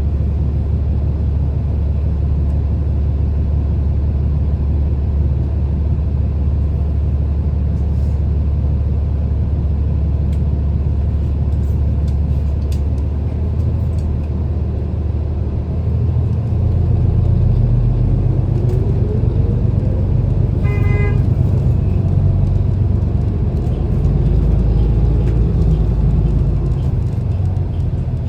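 City transit bus running, heard from inside: a steady low engine rumble that grows louder about two-thirds of the way through, with a whine rising in pitch as the bus speeds up. One short horn-like toot sounds near the middle of that stretch.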